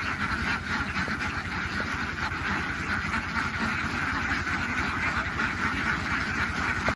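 A large flock of domestic ducks quacking all at once, blending into a dense, continuous chorus, over a low steady rumble.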